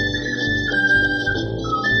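Ocarina playing a melody of long held notes that steps down twice and climbs back up near the end, over a lower accompaniment. Phone recording, not very clean in sound.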